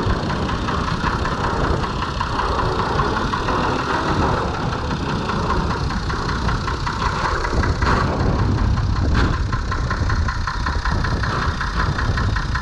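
Six-cylinder Perkins diesel of a Fordson Major tractor running steadily, with two short sharp knocks about eight and nine seconds in.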